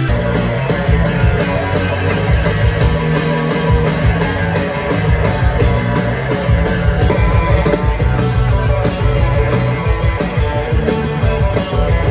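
Rock music with drums, electric guitar and bass, a steady driving beat.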